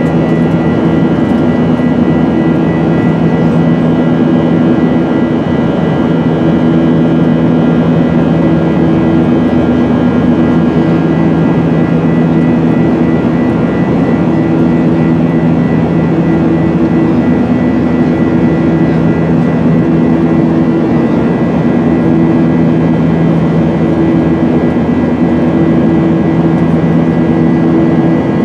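Steady drone of a Boeing 737-900ER's CFM56-7B jet engines, with a constant low hum and a faint high tone and no change in pitch.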